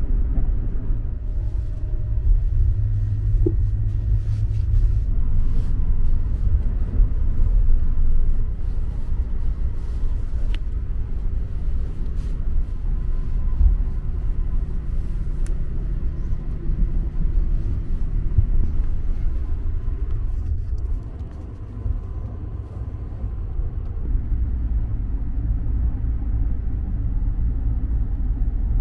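Steady low rumble of the Sunrise Express sleeper train running on the rails, heard from inside a passenger carriage. It eases briefly about three-quarters of the way through.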